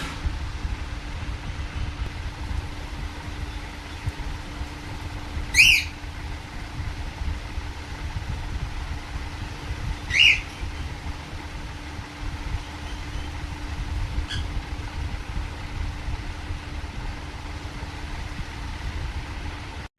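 Young pet parrot giving short, sharp squawks: two loud ones about four and a half seconds apart and a faint one a few seconds later, over a steady low rumble and a constant hum.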